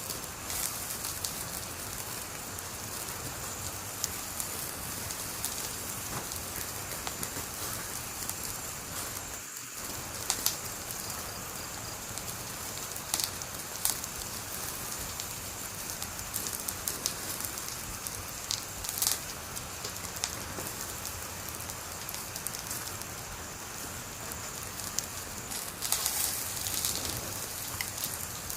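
Fire crackling: a steady hiss of burning with frequent small snaps and a few sharper, louder pops.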